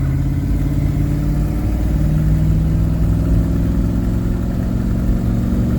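The engine of a 1980s motorhome pulling steadily under load as it gets up to highway speed, heard from inside the cab. Its pitch steps a little higher about one and a half seconds in, then holds while the automatic transmission stays in gear.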